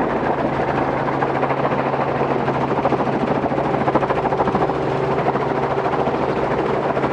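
Robinson R44 helicopter running, a rapid, steady pulsing with a steady low hum under it.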